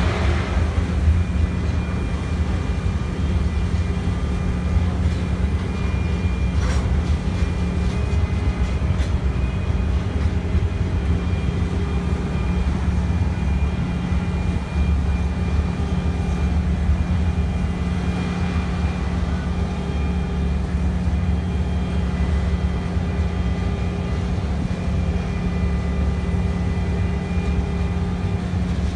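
BNSF double-stack intermodal freight train rolling past, a steady low rumble of its wheels and cars on the rails with faint thin high tones over it.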